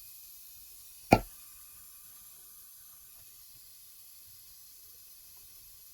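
A single short, sharp pop about a second in, over a faint steady hiss, during a leak test of the exhaust valves' sealing in a cylinder head.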